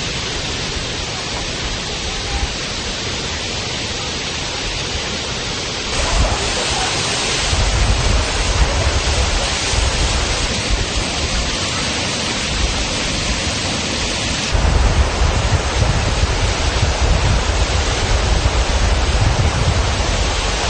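Girlevik Waterfall, about 50 m high, pouring down in a steady rushing noise. It steps up suddenly about six seconds in and again near fourteen seconds, each time louder and with a deeper rumble.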